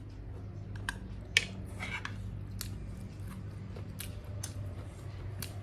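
Eating sounds: chewing with scattered short clicks and crunches, over a steady low hum.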